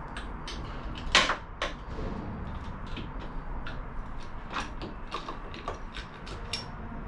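Metal engine parts and tools clicking and clinking as they are handled during a motorcycle top-end teardown: a string of sharp knocks, the loudest about a second in.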